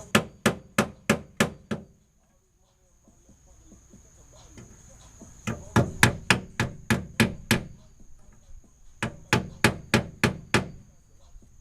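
Hammer blows on metal in quick, even runs of about three strikes a second, three runs in all, typical of hammering sheet-metal tabs on a car's body.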